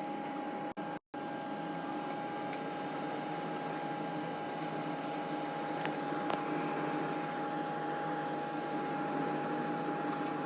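A machine running steadily, a constant hum with a steady whine over it, cut off for a moment about a second in.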